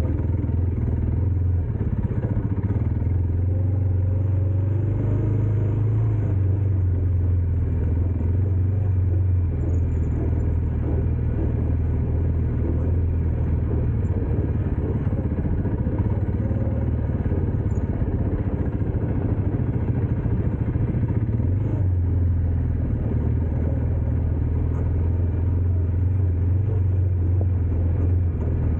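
Dirt bike engine running steadily as the bike is ridden, a continuous low drone that rises and falls a little in pitch.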